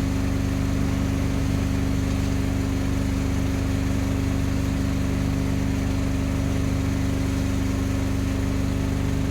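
Fishing boat's engine running steadily, an even, unchanging drone.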